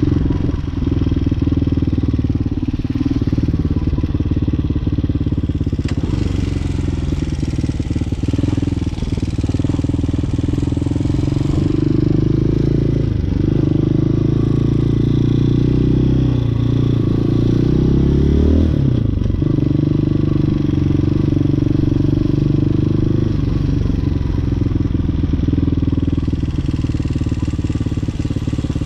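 Hawk 250 single-cylinder dirt bike engine running as it is ridden, its pitch rising and falling with the throttle and gear changes, with one sharp drop in pitch about two-thirds of the way through.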